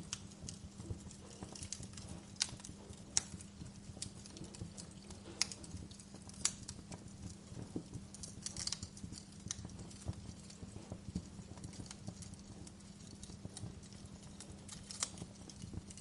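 Fire crackling: irregular sharp pops and snaps, a few standing out louder, over a steady low rumble of burning flames.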